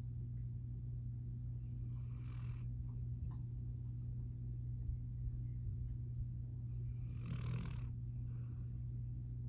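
Pitbull puppy snoring in its sleep: two snoring breaths about five seconds apart, the second the louder, over a steady low hum.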